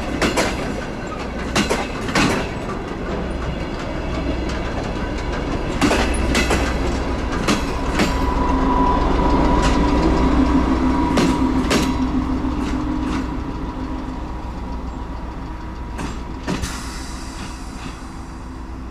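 DR1A diesel-hydraulic railcar running on the rails, its wheels knocking irregularly over rail joints over a steady low rumble. A drawn-out squeal rises from the wheels in the middle, and the sound grows quieter toward the end as the train eases off.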